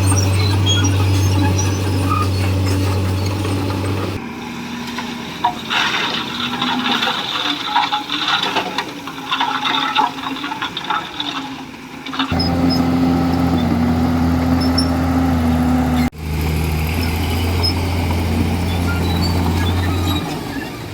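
Komatsu D41E bulldozer's diesel engine running with a steady drone. For a stretch in the middle the drone drops away and higher metallic squealing and clattering take over, and the sound breaks off abruptly twice.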